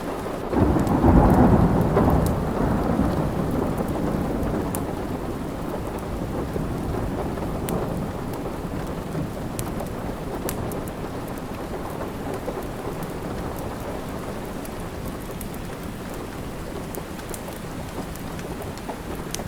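Steady rain with a thunderclap about half a second in, its low rumble fading slowly over the next several seconds, and faint scattered clicks over the rain.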